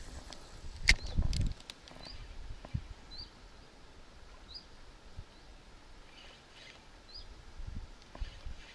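A small bird gives a few short, high chirps, spaced a second or two apart, over quiet outdoor background. About a second in there is a sharp click and a short low rumble, the loudest sound here.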